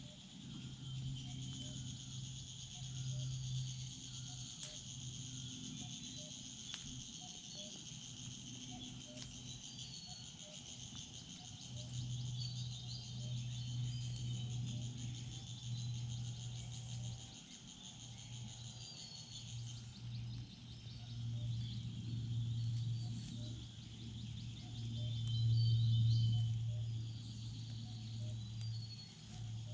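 Woodland ambience: insects keep up a steady high buzz that stops about two-thirds of the way through, with scattered short bird chirps. Under it runs a low hum that swells and fades and is the loudest part.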